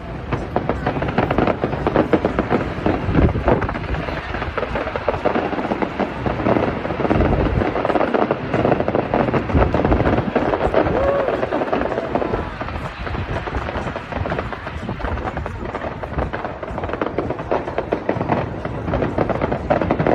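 Fireworks display: a dense, continuous barrage of bangs and crackling from many shells, with voices faintly underneath.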